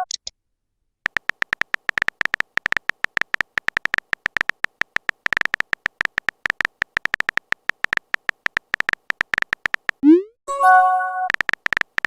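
Chat-app typing sound effect: a fast run of short, clicky electronic beeps, about ten a second, for roughly nine seconds. Near the end a rising pop and a short electronic chime sound, like a new message arriving.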